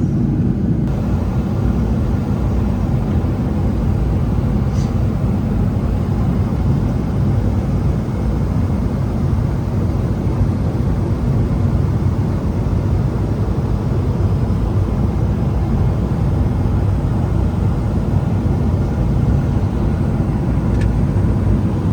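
Steady cabin noise inside a Boeing 777-300ER airliner in flight: an even, low rumble of engine and airflow noise that does not change.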